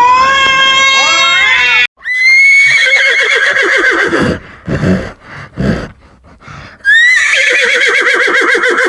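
Horse whinnying: a long whinny with a quavering pitch, a few short snorts and breaths, then a second whinny about seven seconds in.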